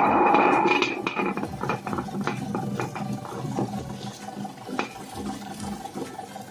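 Electric mixer grinder grinding a wet coconut-and-spice masala for fish curry: it runs loud for about the first second, then goes on more quietly with a steady hum and clattering from the contents.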